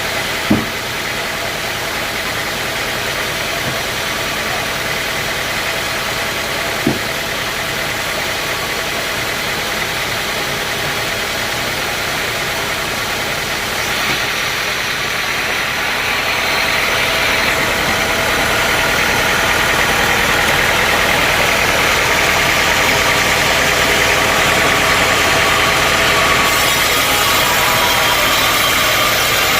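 Sawmill machinery running steadily, an engine-like drone with several steady tones, growing louder about halfway through. Two short knocks sound in the first several seconds.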